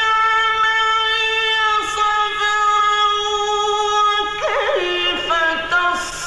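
A man's voice reciting the Quran in the melodic mujawwad style. He holds one long vowel for about four seconds, then turns it into a wavering ornament that steps down in pitch.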